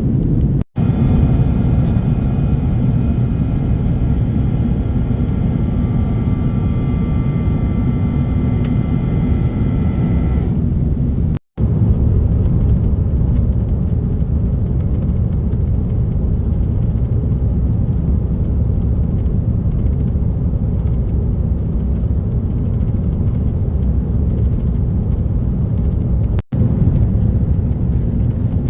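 Airbus A330-300 cabin noise during the descent into Hong Kong: a steady low rumble of engines and airflow. For the first ten seconds a high whine of several steady tones rides over it. The sound drops out sharply for a moment twice.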